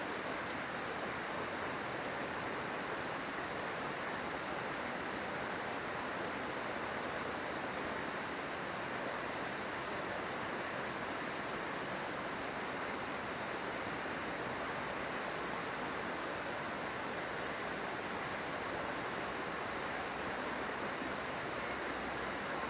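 River water running with a steady, even rush.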